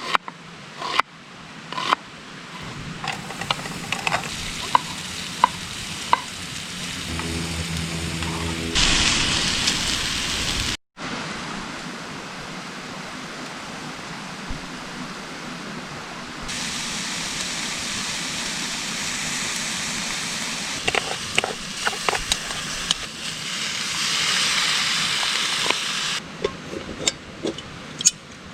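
Food sizzling in a pan on a camping stove, with the clicks and scrapes of a utensil stirring it. The hiss changes abruptly several times, as at cuts between shots.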